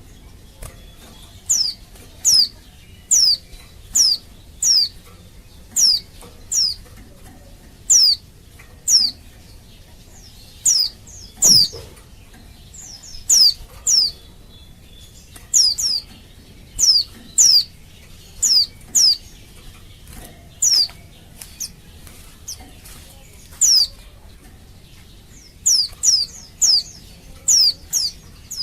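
Female white-eye (pleci) calling: short, high notes that each fall in pitch, given singly or in quick pairs about once a second, the excited contact call used to stir male white-eyes into singing.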